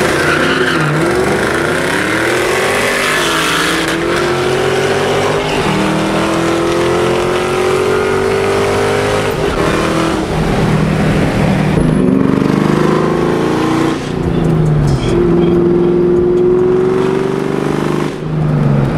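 Supercharged Ford Mustang V8 accelerating hard through the gears. Its pitch climbs steadily in each gear and drops back at each of about four upshifts.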